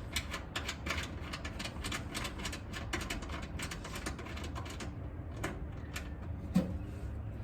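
Ratchet spanner clicking in quick runs as a bolt is undone, then only a few scattered clicks from about five seconds in.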